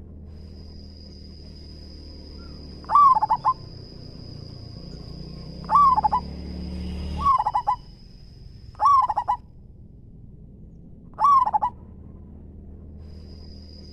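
Zebra dove (perkutut) cooing, five short stuttered phrases repeated every couple of seconds. A thin, steady high-pitched tone runs behind it, stopping about two-thirds of the way in and returning near the end.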